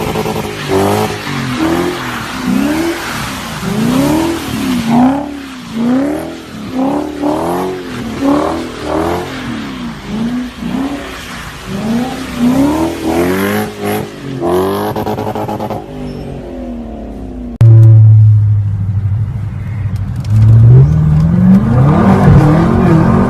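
Car engine revving up and down about once a second, over a noisy hiss of tyres, as in a drift. About 18 s in it cuts abruptly to a loud, steady, low engine drone that then climbs as the revs rise.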